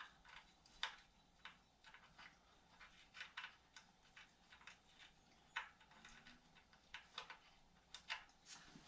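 Faint, irregular clicks and light metal taps of hand tools and engine mounting bolts being fitted and tightened.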